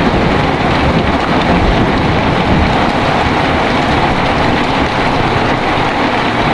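Heavy rain pouring steadily, with the low rumble of thunder dying away in the first second or so.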